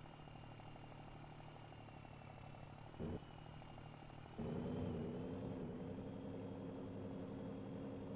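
Straight-piped Scania Super 540 truck's inline-six diesel running at a low idle. About four and a half seconds in it steps up to a louder, steady, higher hum, with a short rise just before at about three seconds.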